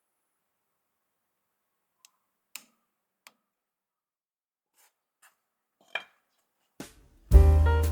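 Six or seven short, faint clicks and taps scattered over a few seconds, then piano background music with a steady low beat starts abruptly near the end and is the loudest sound.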